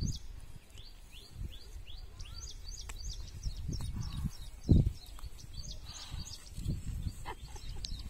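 Small birds chirping busily in rapid, high, down-slurred notes, over a low rumbling noise. A single loud thump comes about halfway through.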